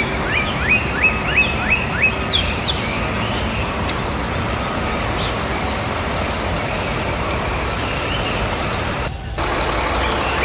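A small bird chirping repeatedly, short falling chirps about three a second for the first two seconds, then a couple of steeper rising calls, over a steady noisy background with a thin high whine. There is a brief break in the sound about nine seconds in.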